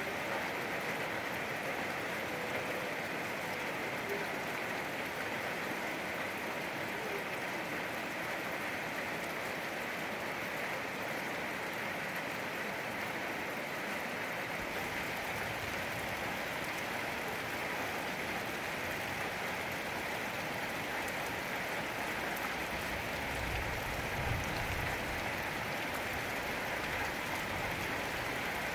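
Steady rain falling, an even unbroken patter. A brief low rumble comes in late on.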